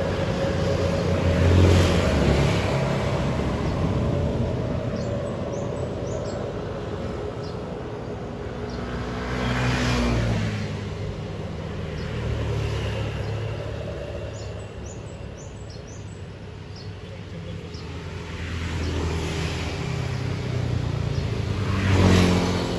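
Road traffic: trucks and buses passing one after another, each engine rumble swelling as it comes by and fading away, several times.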